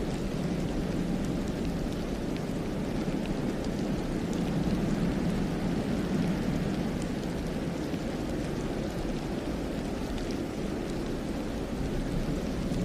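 Steady low rushing of wind through a snowy forest, swelling a little about halfway through, with a few faint scattered ticks.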